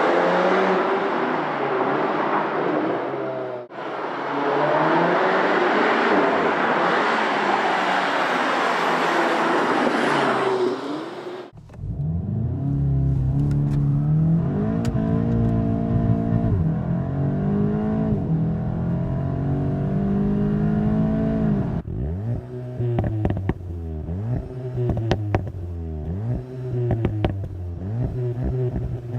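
VW Golf GTI TCR's turbocharged 2.0-litre four-cylinder pulling hard through the gears, its pitch climbing and dropping at each shift. The first stretch sits under a heavy rushing noise. Later the engine is deeper and clearer, and near the end it makes quick rev swings with sharp cracks between them.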